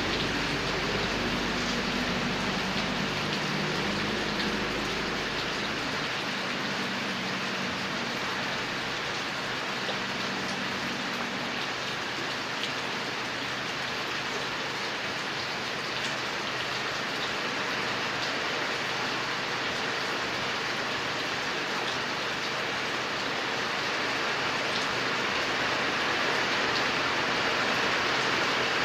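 Steady rain falling, a continuous hiss with scattered drop ticks. A faint low hum sits underneath for the first several seconds, then fades out.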